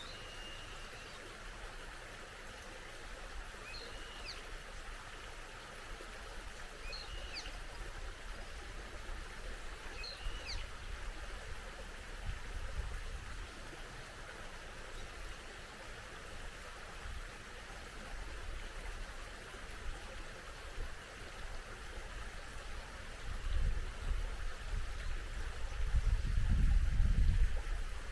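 Steady rush of a small mountain stream. A bird gives a short chirp four times, about three seconds apart, in the first half. A low rumble swells near the end.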